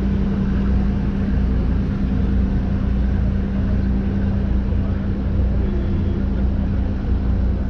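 Engines of the 1951 ferry Thomas Rennie running steadily under way: a constant low rumble with a steady hum over it.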